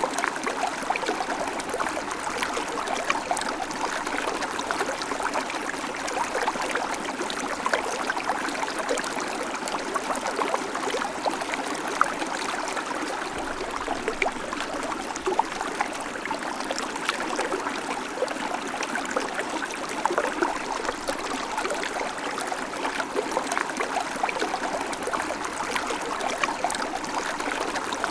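Babbling creek: water running and splashing over stones in a steady, continuous burble with countless small trickles.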